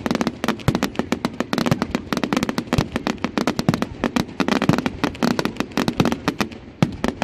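Fireworks going off in a rapid barrage of sharp bangs and crackles, several a second. The bangs thin out a little near the end.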